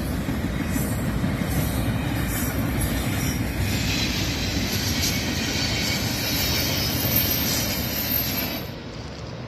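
Double-stack intermodal container well cars rolling past at close range: a steady rumble and clatter of steel wheels on rail, with a higher hiss joining about four seconds in. The sound falls away sharply near the end.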